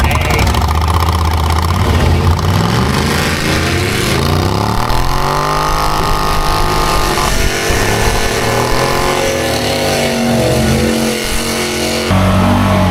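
An off-road vehicle's engine revving: its pitch climbs over a couple of seconds, holds high, then falls back. Near the end the sound switches abruptly to a steady, lower engine note.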